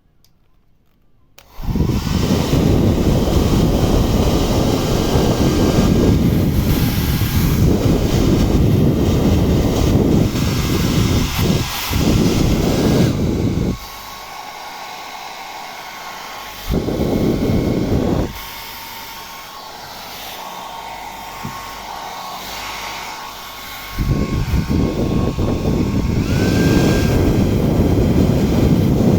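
Handheld hair dryer switched on and blowing with a steady rush of air and a faint motor whine. About halfway through it drops much quieter for several seconds, jumps back up briefly, then runs loud again near the end.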